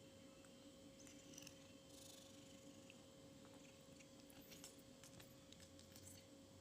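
Near silence: a steady faint hum, with a few faint scattered clicks and rustles.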